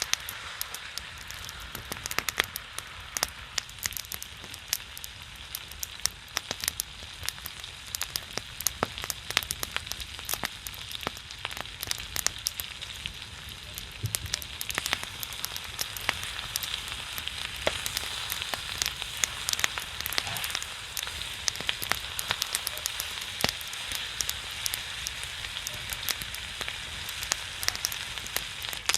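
Pork belly sizzling on a griddle over a pine-wood fire, the fat spitting in a steady hiss, with many sharp pops and crackles from the fat and the burning pine throughout.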